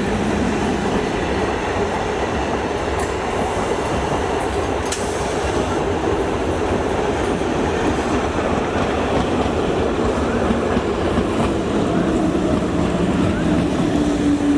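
MEMU electric multiple-unit train running close by along the station track: a loud, steady rumble of wheels on rails, with a few sharp clicks about three and five seconds in.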